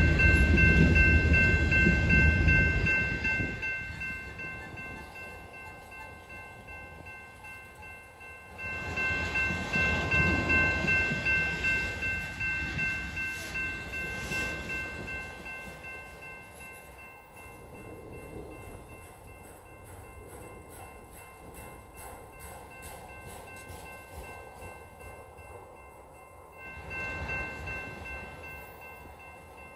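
Freight train cars (autoracks) rolling past on the rails, loud at first, then fading, with a fresh surge about 9 seconds in and a smaller one near the end. A steady high-pitched ringing sits over the rumble, and faint regular clicks of the wheels pass over rail joints in the quieter stretch.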